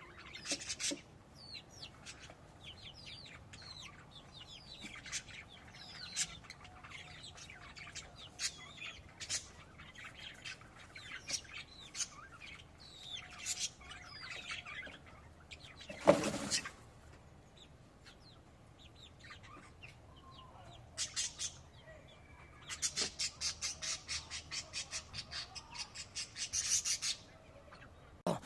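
Small pet birds chirping in many short, quick calls, with one brief loud noise about halfway through and a fast, even run of repeated chirps near the end.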